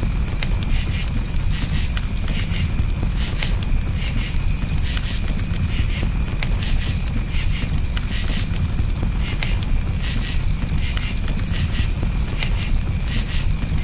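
Crickets chirping in rapid repeated pulses over a campfire, with sharp crackles and pops from the burning wood and a low steady rumble of the fire.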